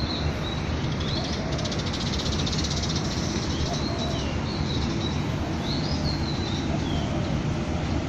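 Birds calling in short chirps that sweep up and down, repeated about every second, with a fast buzzing trill from about one and a half to four seconds in, over a steady low rumble.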